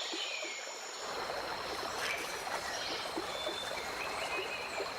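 Flowing river water running steadily, with a steady high-pitched drone and a few short chirps above it. The water gets fuller about a second in.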